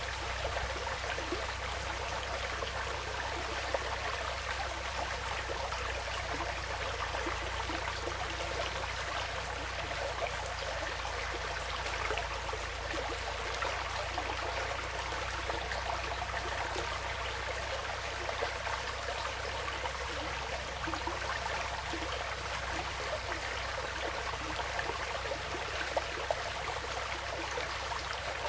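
Woodland stream flowing steadily, a continuous babble of running water.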